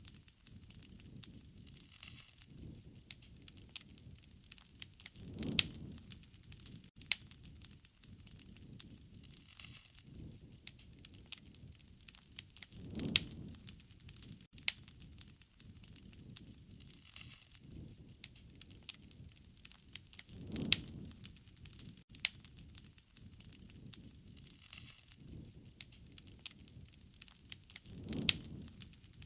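Wood fire crackling, with frequent sharp snaps and pops from the burning wood. A soft, low rushing swell comes and goes about every seven or eight seconds.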